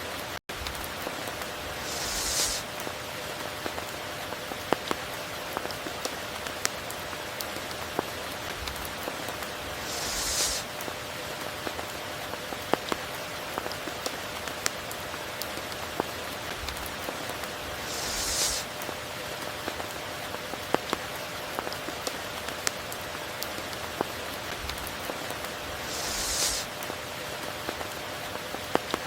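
Steady tropical rain falling, with individual drops ticking sharply through a constant hiss. About every eight seconds a brief, brighter hiss swells up and fades in under a second.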